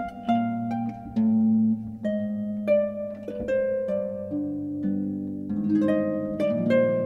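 Background music: a harp playing gentle plucked notes and chords.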